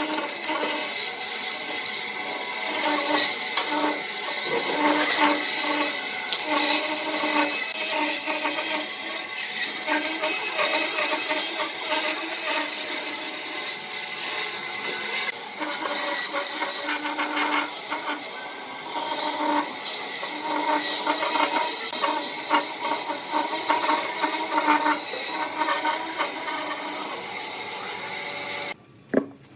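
Wood lathe running while a turning tool cuts into the spinning wood: a continuous scraping rasp over a steady hum. It cuts off abruptly near the end.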